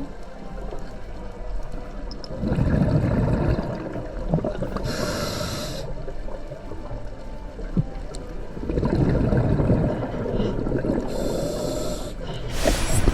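Scuba diver breathing through a regulator underwater, two breaths: each a rush of exhaled bubbles followed by a hiss of inhalation about a second long.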